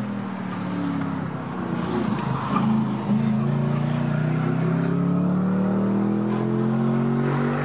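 Ford Mustang 4.6-litre V8 running through an exhaust with its electronic valves open, heard from inside the cabin. The engine note is softer for the first few seconds, then gets louder about three seconds in and rises steadily in pitch as the car accelerates uphill.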